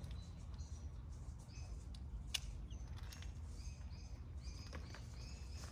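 Small birds chirping in short, repeated high notes, with one sharp click a little over two seconds in, over a steady low rumble.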